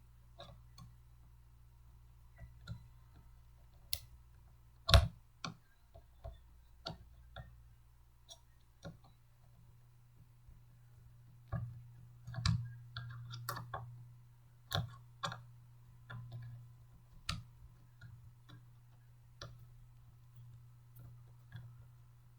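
Irregular clicks and knocks of blender parts being handled and fitted together by hand, with a sharper knock about five seconds in and a cluster of knocks around the middle, over a low steady hum.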